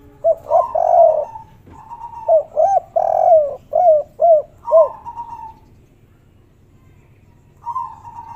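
Spotted dove cooing in the 'kuk 3' song style. A phrase opens with a few notes, then a string of short, arching coos follows from about two to five seconds in, and one brief coo comes near the end.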